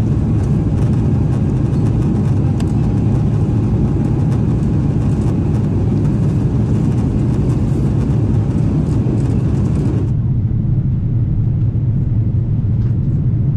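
Steady low roar of a Boeing 777-300ER's passenger cabin in flight: engine and airflow noise, even in level, with the higher hiss dropping away about ten seconds in.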